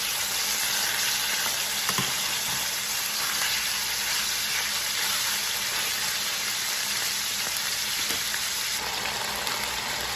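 Chicken pieces frying in hot olive oil in a pan over medium-high heat, browning on their second side after being flipped, with a steady sizzle. A faint click sounds once or twice.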